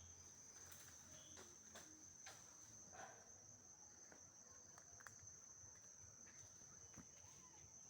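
Near silence with a faint, steady high-pitched trill of crickets throughout, and a few faint light clicks and rustles.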